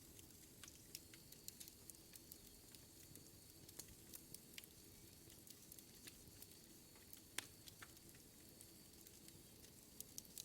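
Wood fire in a fireplace crackling faintly: irregular sharp pops and snaps over a soft steady hiss, with one sharper snap about two-thirds of the way in.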